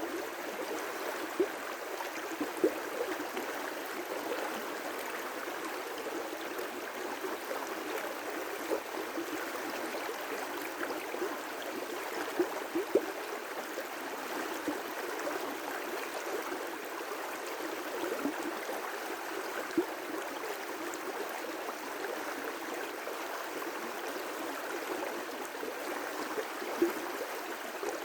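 River rapids: water rushing and splashing over rocks in a steady roar, with brief louder splashes now and then.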